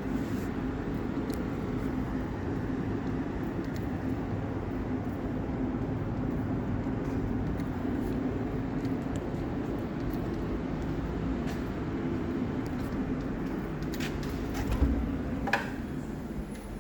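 Steady mechanical rumble with a low hum, with a few short knocks and a dull thump about fourteen to fifteen seconds in.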